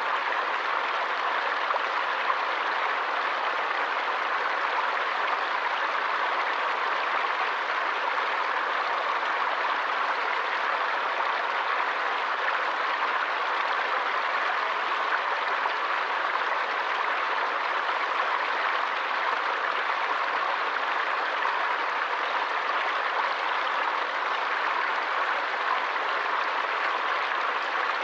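Forest stream running: a steady, even rush of flowing and splashing water.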